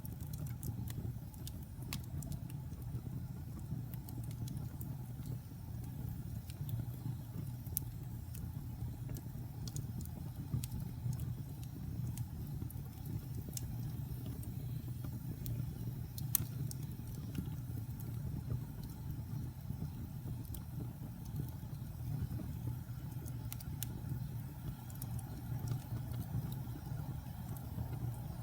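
Wood fire burning in a fireplace: a steady low rumble of the flames with scattered crackles and pops from the burning wood, the sharpest pop about sixteen seconds in.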